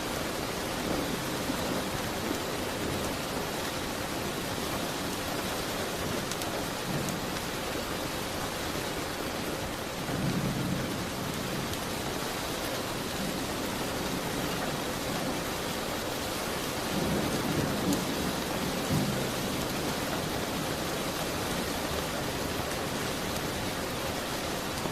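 Steady heavy rain falling, an even hiss, with low rumbles swelling up about ten seconds in and again a little past the middle.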